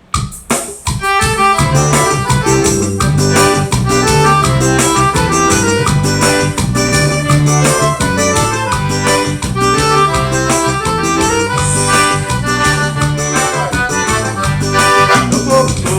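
Forró band playing the instrumental intro of a song: an accordion melody over a steady bass line and beat. It starts abruptly just after the start.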